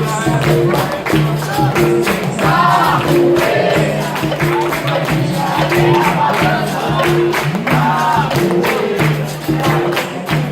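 Capoeira roda music: singing with a chorus answering, over the steady beat of a pandeiro and the twanging notes of a berimbau.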